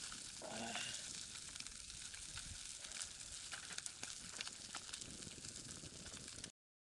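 Yellowtail sizzling in a frying pan over a small wood-burning camp stove: a steady frying hiss with many small ticks and crackles. It cuts off suddenly near the end.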